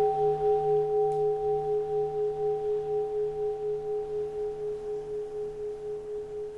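Keisu, a Japanese temple standing bowl bell, ringing out after a strike, its tone wavering as it slowly dies away.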